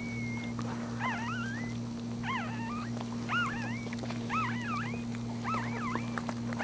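Newborn puppies crying in short, high squeaks, about one a second, each rising and falling in pitch, over a steady low hum.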